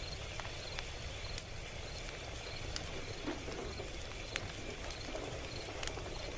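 Log fire crackling: a steady low rumble of burning wood with irregular sharp pops and snaps from the logs.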